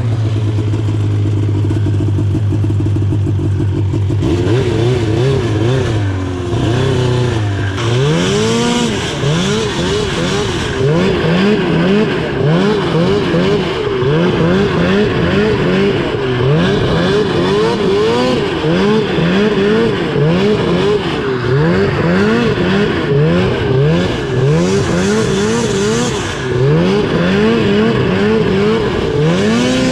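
2000 Ski-Doo Summit 700 snowmobile's two-stroke twin engine under way. It holds a steady note for the first few seconds, then the throttle is worked, and from about eight seconds in the engine revs up and down over and over, roughly once a second.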